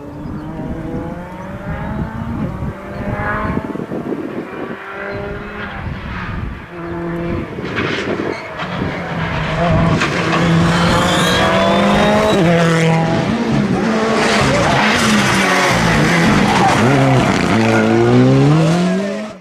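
Rally car engine driven hard, its pitch climbing and dropping through gear changes, getting louder over the first half as the car approaches. A final rising rev near the end cuts off suddenly.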